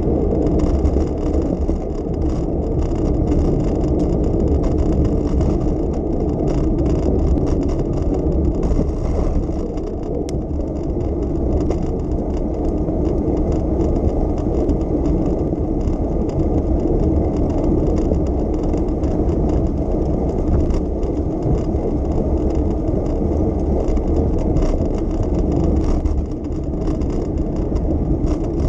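Steady, low rumble of city street noise heard from a moving bicycle, with road and motor-traffic sound.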